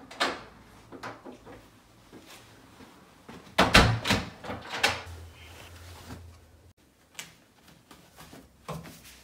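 A door being handled, with a cluster of loud knocks about three and a half seconds in and scattered lighter clicks and knocks around it.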